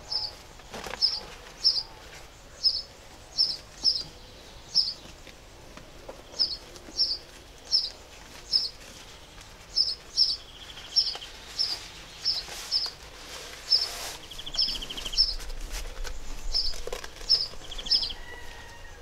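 A bird chirping over and over, a short high chirp a little more than once a second, with two brief buzzy trills around the middle. Faint rustling of fabric being handled lies underneath.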